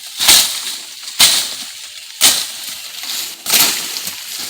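Brush being cleared with a blade: four sharp chopping strokes through vegetation, about one a second, each followed by a short rustle of cut leaves and stems.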